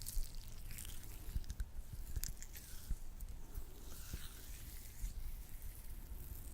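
Latex-gloved hands working sticky lotion, making irregular wet squishing and tacky clicking sounds with soft rubbing between them.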